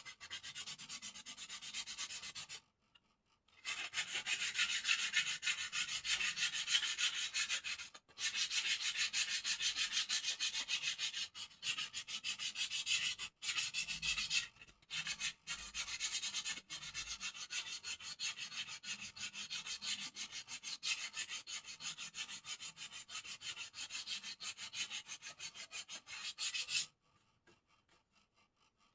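Sandpaper rubbed back and forth by hand over a bird cage to smooth it: quick, even scraping strokes with a few short pauses, stopping near the end.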